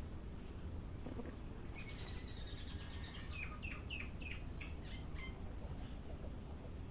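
A songbird singing a quick run of falling chirps in the middle, over a short high thin note that repeats about once a second, with a steady low rumble underneath.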